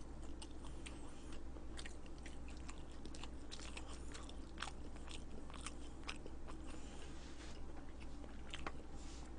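A person chewing a mouthful of food close to the microphone: faint, irregular wet mouth clicks, over a low steady hum.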